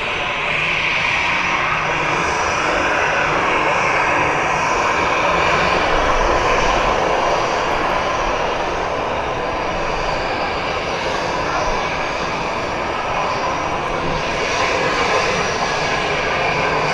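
Jet airliner engines running, a steady loud rush that swells gently and fades a little without ever stopping.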